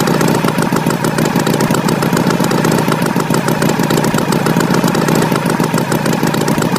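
Tractor engine sound effect running steadily, a fast, even chugging throughout.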